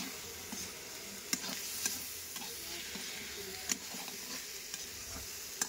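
Jackfruit and tomato pieces sizzling in oil in an iron kadhai while a metal spatula stirs them, with a few sharp clicks and scrapes of the spatula against the pan.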